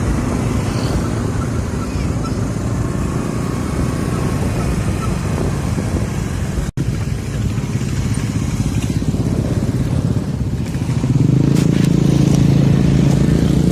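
Motorcycle engine running with road and wind noise, a brief break near the middle, and the engine sounding closer and steadier for the last few seconds.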